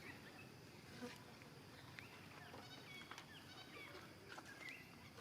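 Faint, short, high chirps scattered throughout, with a few faint clicks, over quiet outdoor background.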